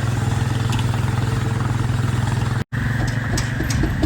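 Steam-powered sawmill running: a Baker steam traction engine driving a Frick 00 sawmill's 60-inch circular blade, making a loud, steady low hum. The sound drops out for an instant about two and a half seconds in, then carries on.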